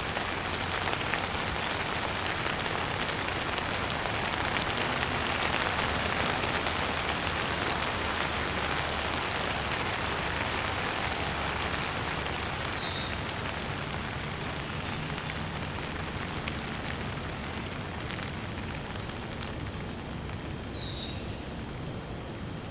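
Steady rain falling, with two short bird chirps, one about halfway through and one near the end.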